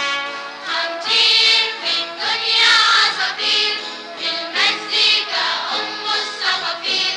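Music: a song sung by a group of voices over instrumental backing.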